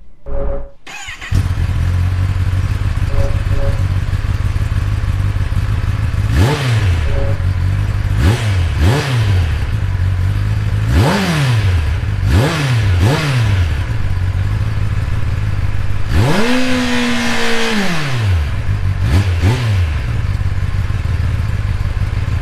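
2021 Kawasaki ZX-10R's 998cc inline-four engine idling and being blipped in short free revs, about eight times, with one longer rev held high for about two seconds.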